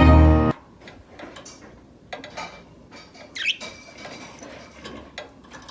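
Background music cuts off about half a second in, followed by budgerigars' soft chirps with a short rising squeak and scattered small clicks and scratches.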